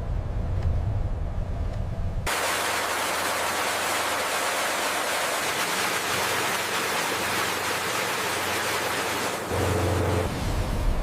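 A low rumble for about two seconds that cuts suddenly to a loud, steady rushing hiss, with a short low hum breaking in about nine and a half seconds in.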